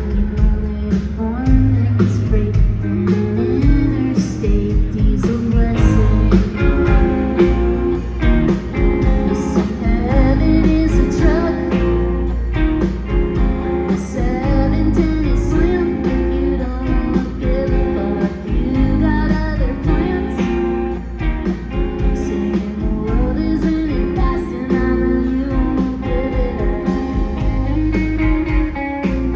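Live indie rock band playing a song at full volume, with guitar, a steady heavy low end and a sung vocal over it.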